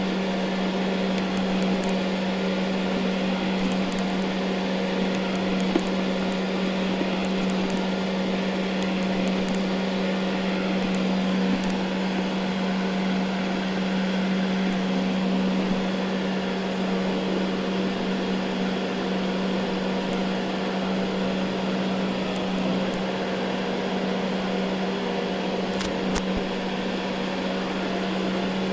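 Ecovacs Deebot N79 robot vacuum running steadily while cleaning carpet: an even motor and suction hum with a low steady drone, and a few faint scattered clicks.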